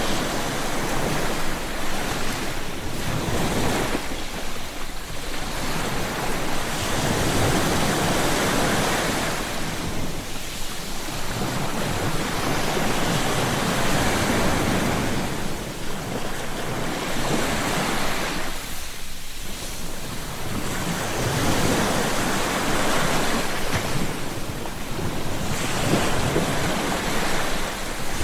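Ocean waves breaking and washing up a shore, each surge building and easing off every five or six seconds.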